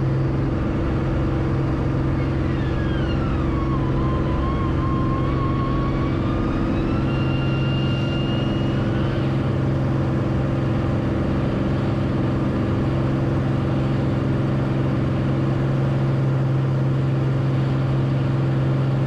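Beechcraft Bonanza's piston engine and propeller running at steady power, a constant-pitch drone heard from the cockpit. A faint thin whistling tone falls and then slowly rises for several seconds near the start.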